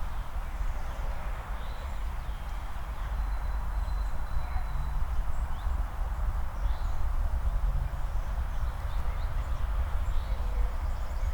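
Walking footsteps in hiking boots on pavement, with faint bird chirps over a steady low rumble.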